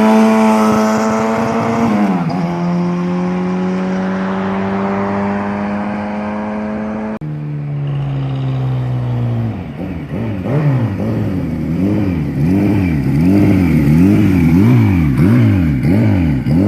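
Turbocharged inline-four engine of a 1979 Kawasaki Z1R-TC motorcycle under way, its pitch climbing as it accelerates, dropping about 2 s in as it shifts up, then climbing again. After a cut about 7 s in the revs fall. From about 10 s on the pitch rises and falls repeatedly, roughly one and a half swings a second.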